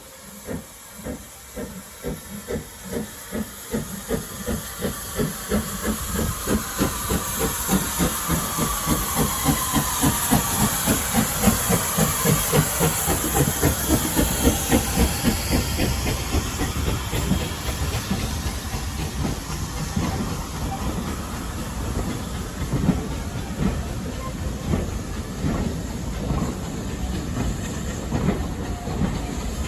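Steam locomotive pulling away from a standstill: its exhaust chuffs speed up from about one and a half beats a second to about three and grow louder, under steady steam hiss. In the second half the beats blur into a steady rolling rumble with rail clatter.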